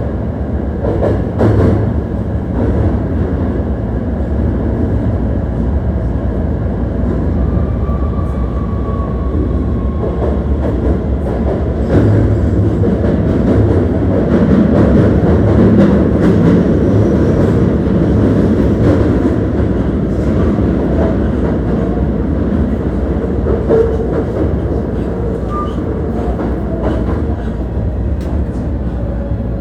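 Running noise inside a Hankyu 1300-series electric train car in the underground tunnel: a steady wheel-on-rail rumble with scattered clicks from the track. It grows a little louder midway, and a faint motor tone from the Toyo IGBT-VVVF drive comes and goes.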